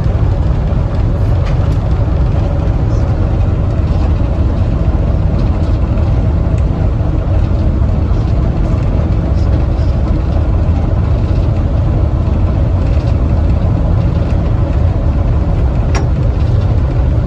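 Railway passenger car rolling along the track, heard on board as a steady, loud low rumble with a few faint ticks.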